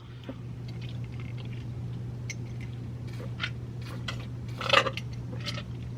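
A person chewing food close to the microphone: scattered soft mouth clicks with one louder smack just before five seconds in, over a steady low hum.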